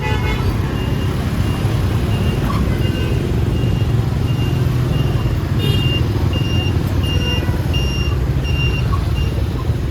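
An electronic warning beeper sounds a short high beep a little under twice a second over the steady low rumble of a vehicle engine and traffic. A higher second tone joins the beeps about two-thirds of the way through.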